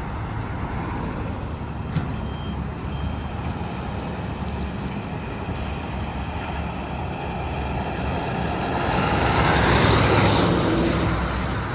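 Highway traffic with a heavy truck's engine running. The drone and tyre noise swell to their loudest about ten seconds in as a vehicle passes close, then ease off.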